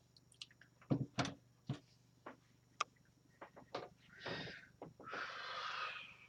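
Scattered knocks and clicks of tools and parts being handled while searching for a screwdriver, then two longer scraping, rustling sounds near the end.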